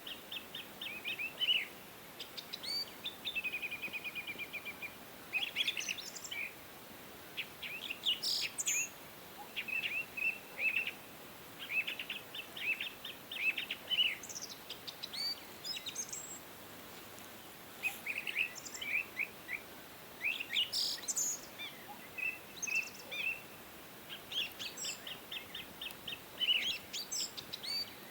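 Small birds chirping and calling, in quick runs of short chirps with now and then a higher, sharper call, over a faint steady background hiss.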